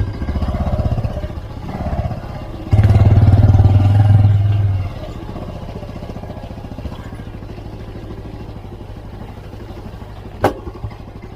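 Motorcycle engine running while riding, with a louder stretch of about two seconds around three seconds in, then steadier and quieter; a single sharp click near the end.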